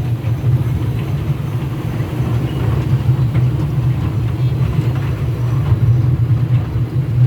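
Mini train's engine running with a steady low drone.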